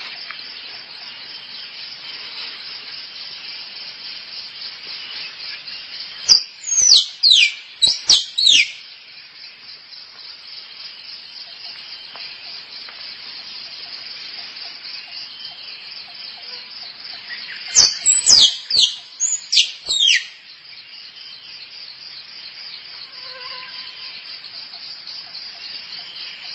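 Squirrel calls: two bursts of sharp, high calls sweeping steeply downward, each lasting about two seconds and about ten seconds apart. Under them runs a steady, rapid, high-pitched pulsing trill.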